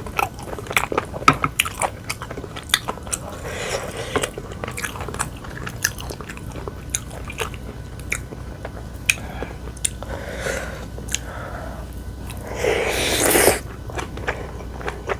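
Close-miked chewing and biting of food, with many sharp, irregular mouth clicks. About two-thirds of the way through comes a louder, noisier sound lasting about a second.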